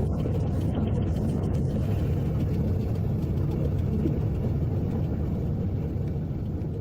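Jet airliner engines running at high power on the runway: a steady, heavy rumble with a hiss of jet noise above it.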